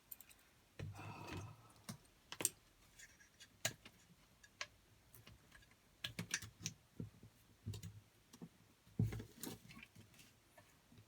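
Scattered light clicks and knocks of small electrical parts and wires being handled, with a couple of soft thumps about a second in and near the end.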